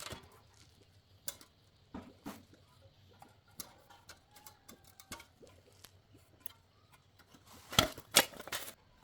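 Scattered light clicks and taps, with two louder knocks close together near the end.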